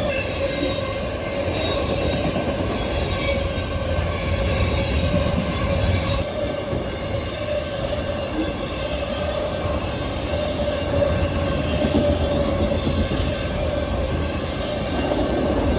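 A freight train rolling by: steel wheels running on rail with a steady rumble, and a steady high wheel squeal held throughout.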